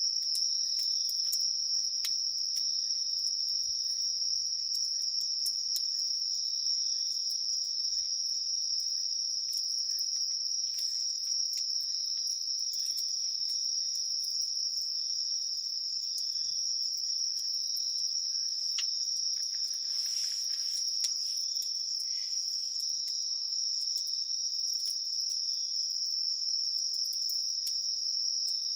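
A steady chorus of crickets and other autumn insects chirping, one continuous high-pitched trill, with faint scattered crackles from a wood campfire.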